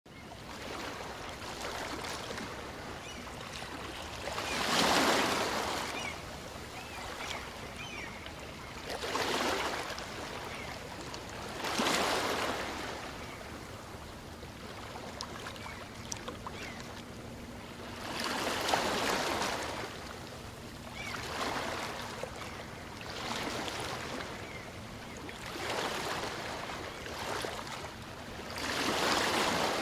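Small waves of a calm sea breaking and washing up a beach. Each wave is a hissing swell that rises and fades, coming every few seconds over a steady wash.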